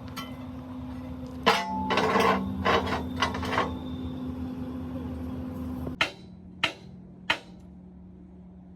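Metal clanks and knocks over the steady hum of a running machine in a workshop. A loud cluster of clanks comes first, the first one ringing briefly, and three sharp knocks follow near the end; the hum drops in pitch just before them.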